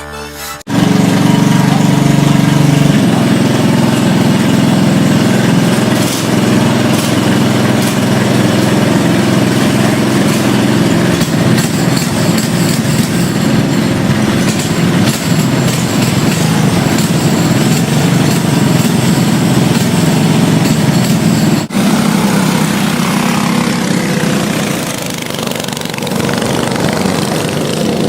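Racing go-kart engines, Briggs & Stratton Animal four-strokes, running hard at high revs as the karts race, a loud steady drone that starts abruptly just under a second in, with a brief break about three quarters of the way through.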